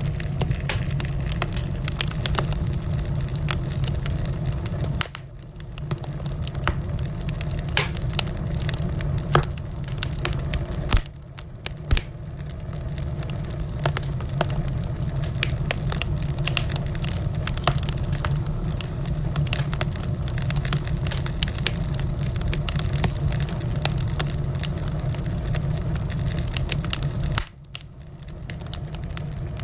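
Wood fire crackling in a fireplace: many quick, irregular pops and snaps over a steady low rumble. The sound dips briefly three times.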